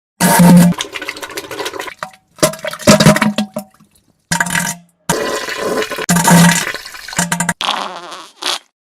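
A string of edited wet diarrhea and fart sound effects: splattering, watery noise like a toilet flushing, with short low buzzing tones. About five pieces follow one another, each starting and stopping abruptly.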